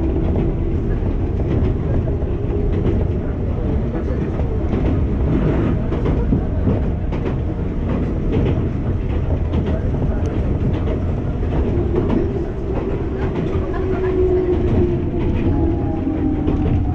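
Enoshima Electric Railway train heard from inside the carriage: a steady rumble with the wheels clicking over the rails. From about twelve seconds in, a motor whine falls slowly in pitch as the train slows.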